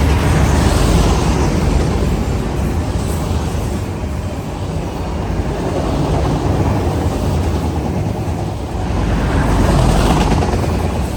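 CPKC freight train of autorack cars rolling past: a steady rumble of steel wheels on rail, swelling and easing as the cars go by.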